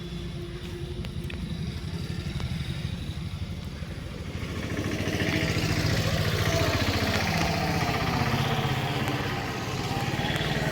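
A vehicle engine running steadily, getting louder and fuller a little under halfway through.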